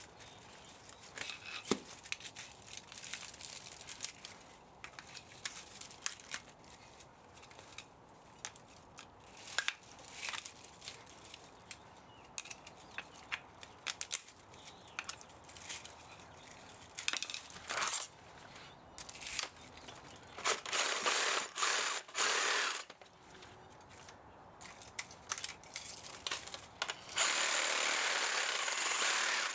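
Tools and metal parts clicking and scraping as an old spa motor is dismantled for scrap, with two steady bursts of a power tool, one about two-thirds in and one near the end.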